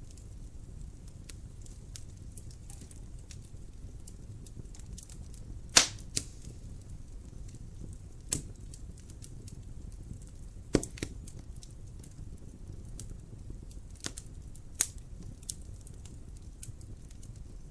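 Wood fire crackling in a fireplace: a low steady rumble of burning with many small ticks and a few sharp pops. The loudest pop comes about six seconds in, and others fall near 8, 11 and 15 seconds.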